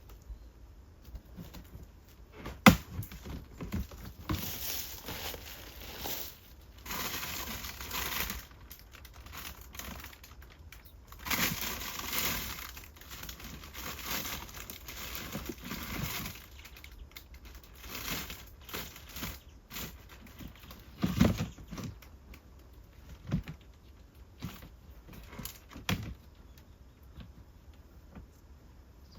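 Intermittent rustling and crinkling, as of things being handled, with scattered sharp knocks; the loudest knocks come about three seconds in and again around twenty seconds in.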